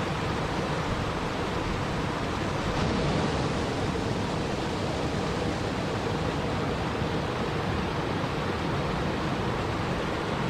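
Steady, even rushing of water with no breaks or distinct events, a continuous sleep-sound ambience.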